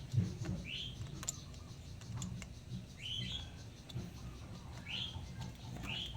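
A bird chirping: short rising chirps repeated every second or two, with a few light clicks in the first half.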